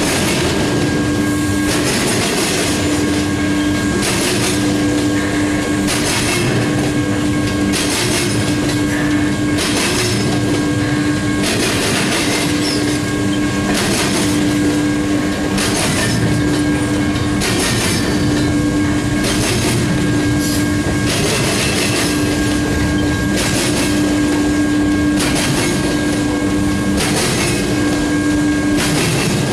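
Double-stack intermodal container well cars rolling past at speed: a steady rumble of steel wheels on rail, with a burst of clacking about every two seconds as each set of wheels passes, and a humming ring that comes and goes.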